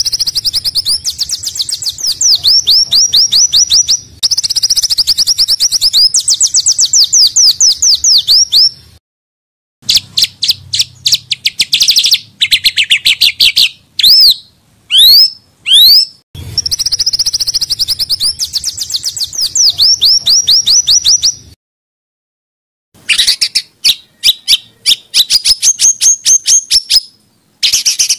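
Small songbirds singing rapid-fire bursts of fast repeated chirps and trills, with a few sweeping whistled notes in the middle. The song comes in separate segments cut apart by brief stretches of total silence.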